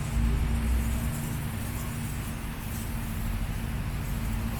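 A motor running: a steady low rumble with an even hum, over general background noise.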